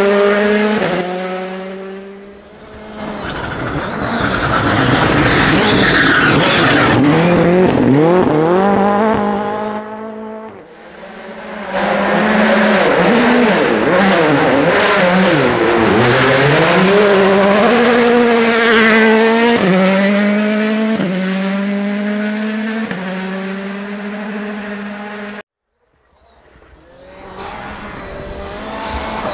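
Rally cars passing one after another at full speed, engines revving hard: the pitch climbs in steps through the gear changes and drops as each car goes by. Several passes are joined by abrupt cuts. One stops dead near the end, and another car is heard approaching.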